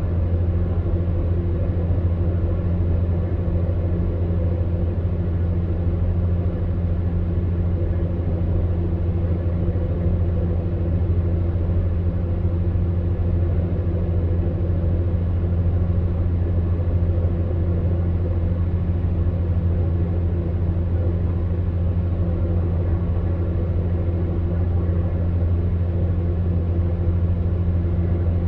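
Electric fan heater running steadily: a constant low hum under an even rush of blown air.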